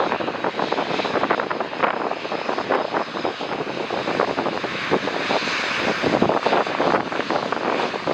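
Jet airliner engines on landing approach: a loud, steady rushing roar of engine noise that swells slightly around the middle.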